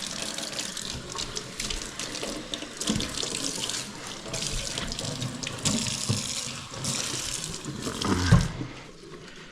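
Kitchen sink faucet running, water splashing into the sink basin, ending with a thump about eight seconds in, after which the water stops.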